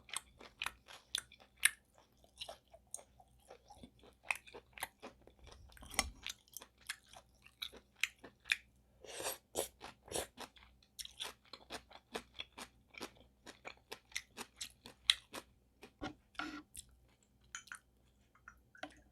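Close-miked mouth chewing of spicy sea snail bibim noodles: wet, crunchy chewing clicks, several a second, with a denser stretch about nine seconds in.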